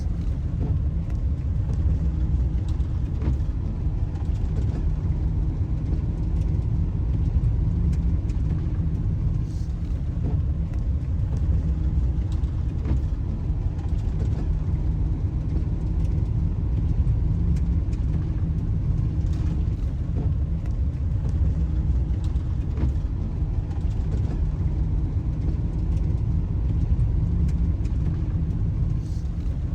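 Camper van driving on a snowy road: a steady low rumble of engine and road noise.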